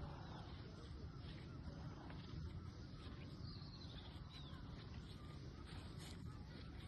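Faint bird calls: a few short chirps and quick descending notes over a steady low rumble of wind.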